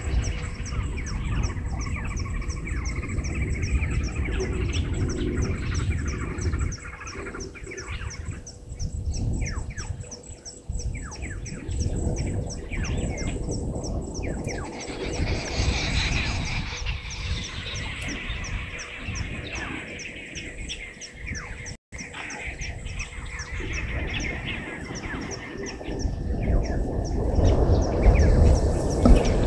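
Birds chirping, with a high call repeated at an even pace through the first half, over a low rumble that grows loudest near the end.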